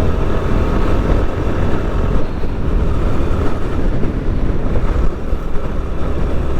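Motorcycle engine running steadily on the move, with a strong low rumble and wind rushing over the microphone.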